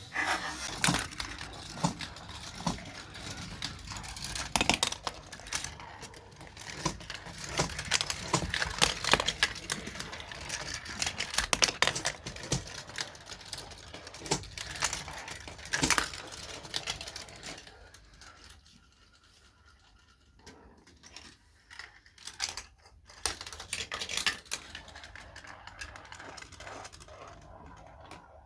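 Marbles rolling and clattering through a plastic Gravitrax marble run, with many rapid clicks and knocks. The clatter thins out about two-thirds of the way through, leaving a few scattered clicks.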